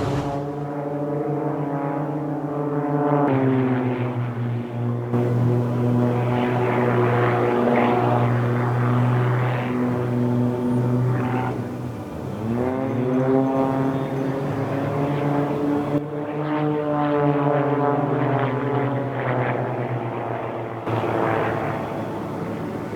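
Propeller aircraft engines running, a steady multi-tone hum whose pitch bends up and down as planes pass. The sound changes abruptly a few times.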